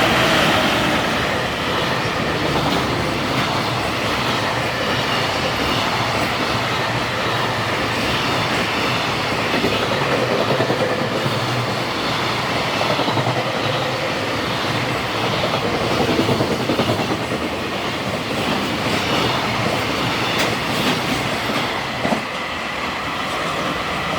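High-speed freight train hauled by an EF210 electric locomotive passing at speed: steady rolling noise of the wagons' wheels on the rails, loudest right at the start, with one sharp knock near the end.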